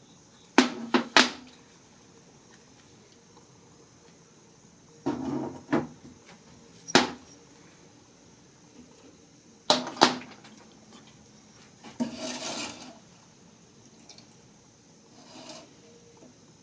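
Small engine parts and tools being handled and set down on a workbench during a teardown: clusters of sharp metallic clinks and knocks, with a short rattle about twelve seconds in.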